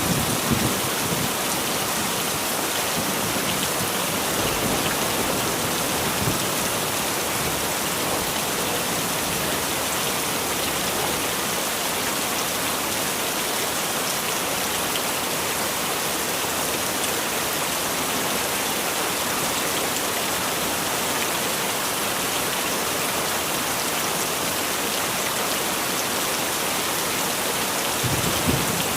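Heavy rain falling steadily, a dense even hiss of drops. Brief low thunder rumbles come right at the start and again near the end.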